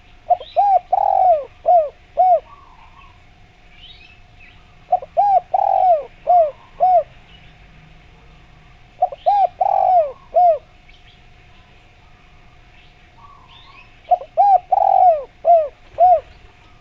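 Spotted dove cooing: the same phrase four times, about every four to five seconds, each a run of about five short coos with a longer, louder note in the middle. Faint chirps of small birds and a faint steady hum lie underneath.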